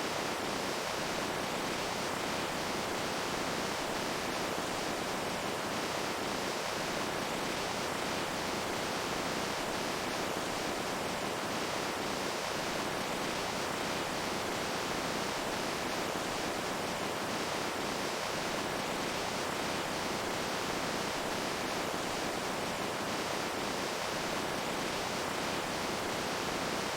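Running water, a steady unbroken rush with no distinct splashes or drips.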